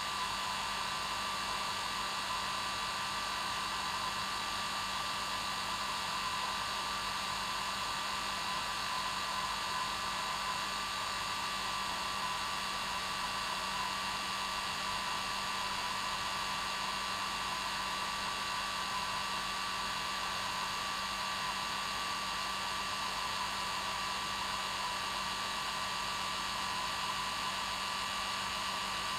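Hair dryer running continuously at its normal setting: a steady airflow rush with a constant motor whine and hum.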